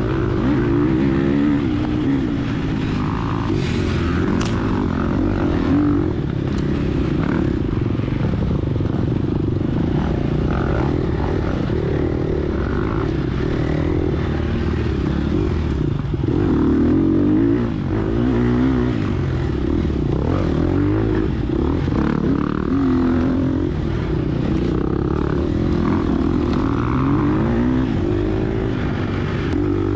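Gas Gas EX250F four-stroke single-cylinder dirt bike engine under hard riding, its pitch repeatedly rising and dropping back as the throttle is worked and gears change.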